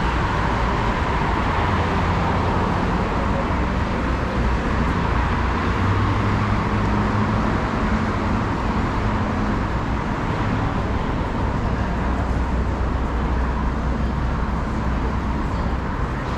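City traffic: a steady wash of road noise with the low hum of vehicle engines, a deeper engine drone growing stronger about six seconds in.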